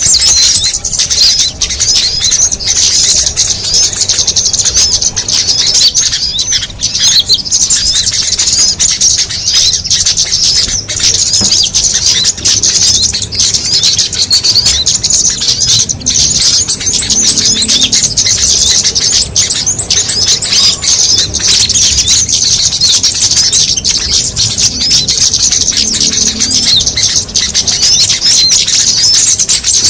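A dense chorus of many small birds calling at once: overlapping high-pitched chirps and twitters with no pause, a mixed bird-lure recording (suara pikat) used to draw in small songbirds.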